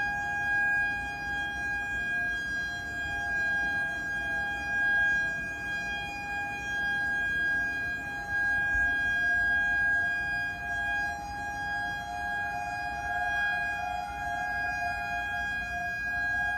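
Outdoor civil-defense warning sirens sounding a steady tone, two slightly different pitches beating together, the level swelling and fading as it carries across the area.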